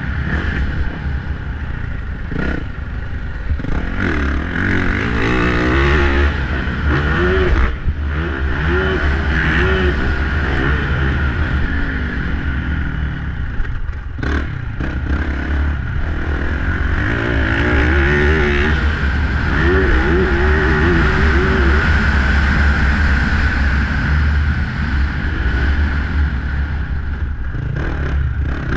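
Motocross dirt bike engine revving up and down repeatedly as the bike is ridden around the track, with a few sharp knocks along the way.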